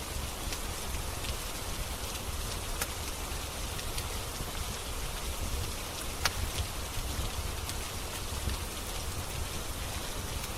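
Steady rain with a low rumble underneath and scattered sharp clicks and pops from a crackling wood fire. The loudest pop comes about six seconds in.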